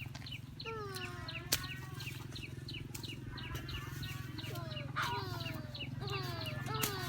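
Chickens calling: many short, high, falling peeps a few times a second, mixed with longer falling calls, over a steady low drone. A single sharp click sounds about one and a half seconds in.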